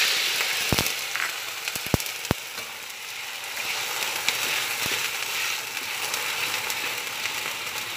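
Tofu and mushrooms sizzling in a wok in a bubbling soy-sauce liquid, a steady hiss. A spatula stirs and knocks against the wok a few times, mostly in the first two and a half seconds.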